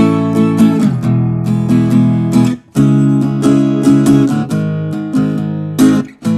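Harley Benton acoustic guitar with a solid mahogany top, chords strummed in a steady rhythm, with two brief stops between phrases.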